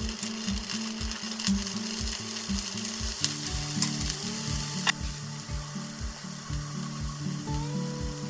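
Scallops sizzling in hot olive oil in a frying pan as they are laid in, with a few sharp clicks during the first half. Background music with a steady beat plays underneath.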